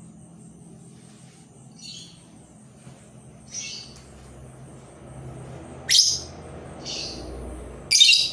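Labet decoy bird calling in short, sharp high chirps, five in all, the loudest two about six and eight seconds in.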